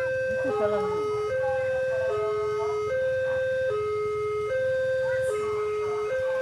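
Railway level-crossing warning alarm sounding: two electronic tones, one high and one low, alternating about every 0.8 seconds.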